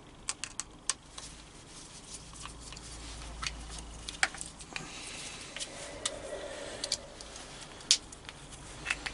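Scattered light clicks and taps of small plastic and metal parts being handled and fitted together by hand, a dozen or so irregular ticks with a louder click near the end.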